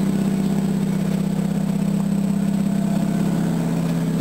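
Mazda 12A twin-rotor rotary engine running at low revs, not yet warmed up, as it pulls the car slowly in reverse: a steady, fast-pulsing drone.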